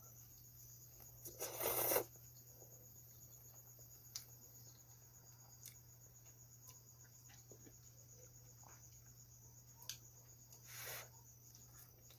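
Crickets chirping steadily in the background while someone eats ramen noodles. There is a loud slurp about a second and a half in and another near the end, with faint clicks of chewing and utensils in between.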